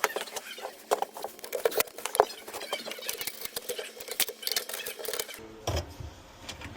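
Rapid, irregular light clicks and rattles of metal hardware and screws being handled while mounting the unit, stopping about five seconds in.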